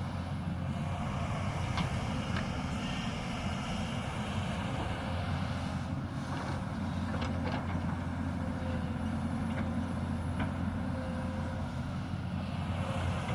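Hyundai 220 excavator's diesel engine running steadily, with a few short knocks scattered through.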